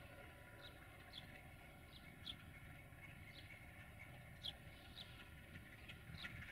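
Faint birdsong: short, high chirps about one every half second to a second, the loudest about two and four and a half seconds in, over a low, even rumble.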